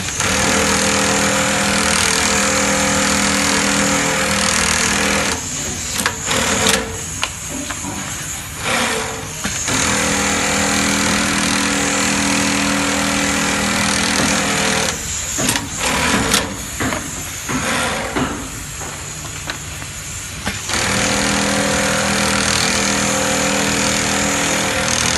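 A shoe-making machine running with a steady hum. It stops and starts again in cycles, with sharp mechanical clicks in the quieter pauses between runs, around 6 and 16 seconds in.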